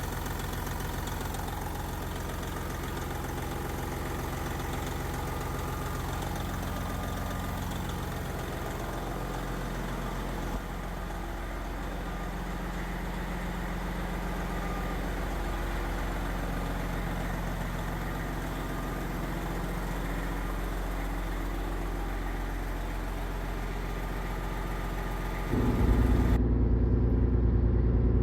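Detroit Diesel Series 60 12.7-litre inline-six in a 1998 Peterbilt 379 idling steadily, running on a newly fitted BorgWarner K31 turbocharger. Near the end the sound suddenly becomes louder and deeper.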